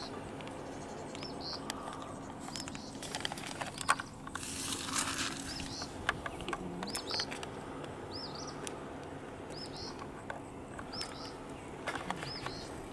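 A small bird repeating a short, quick chirp about once a second. Scattered sharp clicks and a brief rush of noise, about four to five seconds in, come in over it.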